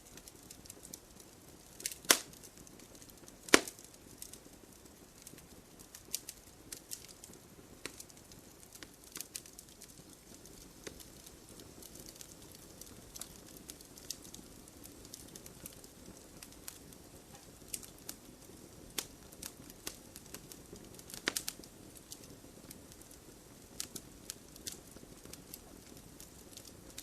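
Wood fire crackling: irregular sharp pops and snaps over a soft low hiss, with two loud pops about two and three and a half seconds in and another about two-thirds of the way through.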